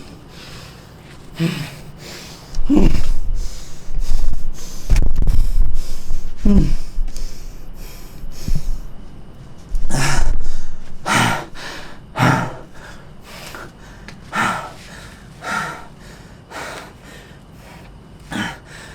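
A man breathing hard with a series of strained grunts and gasps while straining through pull-ups, some sliding in pitch. Loud low bumps and rumbling in the first half.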